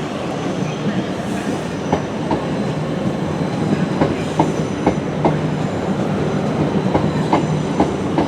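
Train moving along the track, a steady rumble and hum with sharp wheel clicks over rail joints that come more often and grow louder from about two seconds in.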